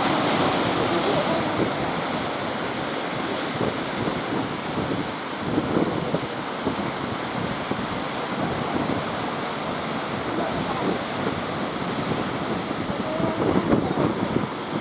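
Heavy ocean surf breaking and rushing, with wind buffeting the microphone; a louder hissing wash of white water in the first second.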